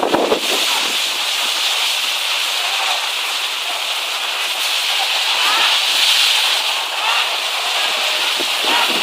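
Heavy rain pouring down steadily, a dense even hiss with a few thumps right at the start.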